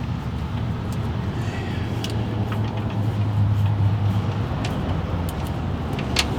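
A steady low hum with a few light clicks, the clicks from a hand tool tightening a hose clamp on a replacement fuel line.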